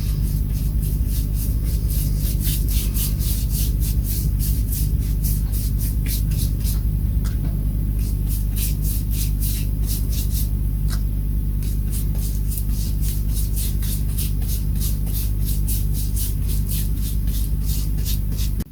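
Rapid rubbing strokes, three to four a second with brief pauses, as grain filler is worked into the Telecaster's wooden body, over a steady low hum.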